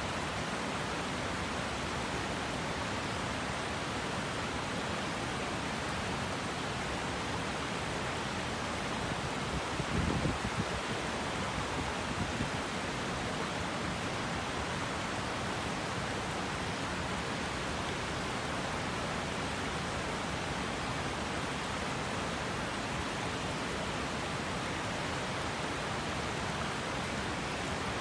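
Steady rushing of river water. About ten seconds in there is a brief low rumble, with a smaller one a couple of seconds later.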